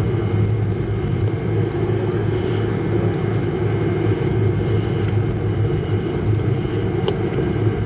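Airliner cabin noise on the ground after landing: a steady low hum and hiss from the engines and air system, with one sharp click about seven seconds in.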